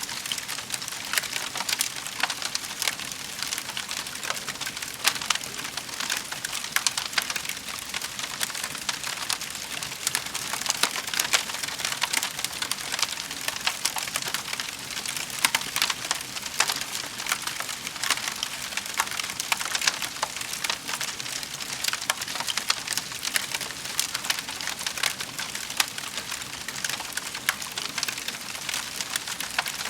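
Wood fire crackling in a fireplace: a steady hiss dense with sharp pops and snaps.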